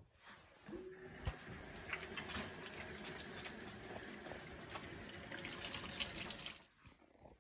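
Water running or being poured steadily for about six seconds, starting about a second in and stopping shortly before the end.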